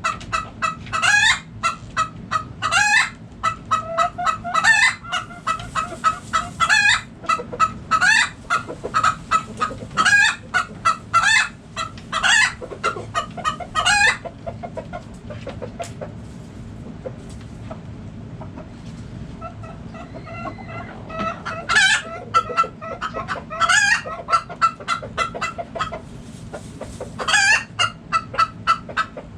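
A flock of backyard chickens clucking, with rapid runs of short calls and louder squawks. The calls thin out to a lull in the middle, then pick up again near the end.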